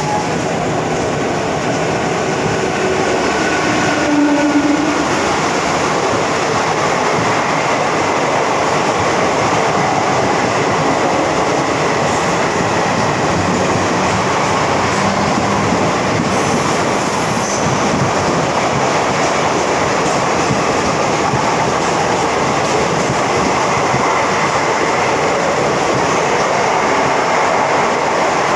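Air-conditioned electric suburban train departing and running along the track: a steady loud rumble of wheels and running gear, with some rail clatter.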